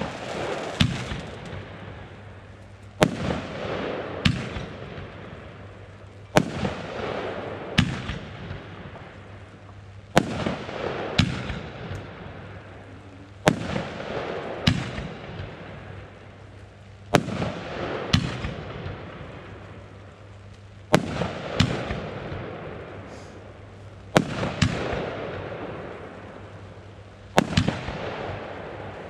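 Consumer firework battery firing a shot about every three and a half seconds. Each shot is a sharp launch thump, then a louder aerial burst about a second later with a hissing tail that fades before the next shot.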